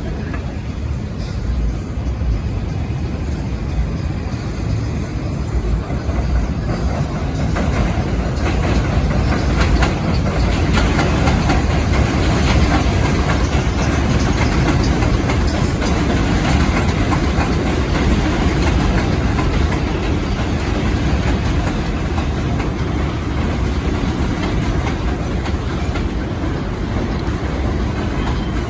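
R142 subway train pulling into an elevated station, wheels clattering over the rail joints. It grows louder over the first several seconds, then holds steady and eases slightly near the end.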